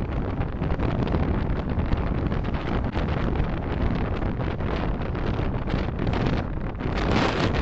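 Steady road, tyre and wind noise of a car driving, picked up by a dashcam microphone, with a low rumble underneath; it grows a little louder about seven seconds in.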